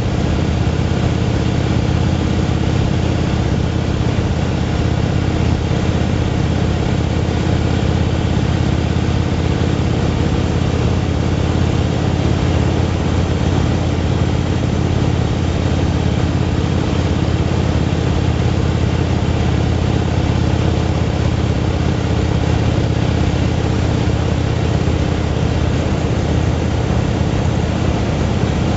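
Motorcycle engine running at a steady cruise, a low, even drone that neither rises nor falls, with an even hiss of wind and road noise over it.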